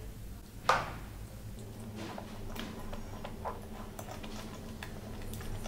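Close-miked eating sounds of a mouthful of bhatura with chole: a sharp bite about two-thirds of a second in, then soft, irregular clicks and smacks of chewing.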